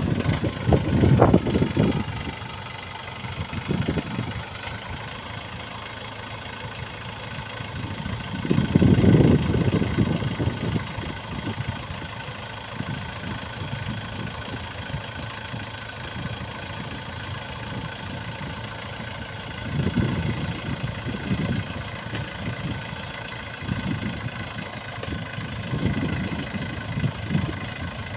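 Diesel engine of heavy earth-moving or farm machinery running at idle, with several revs; the biggest is about nine seconds in, and others come near the start, around twenty seconds and toward the end.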